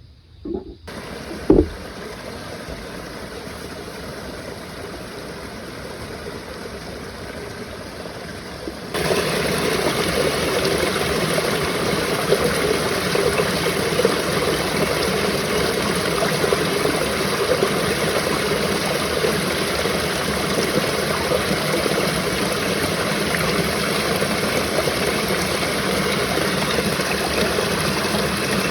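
Steady rushing noise of water, rain or running water, that jumps louder about nine seconds in and then holds even. Two short knocks come in the first two seconds, the second the loudest sound in the stretch.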